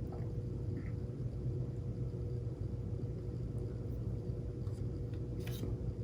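Steady low background rumble with a faint steady hum, and one faint click near the end.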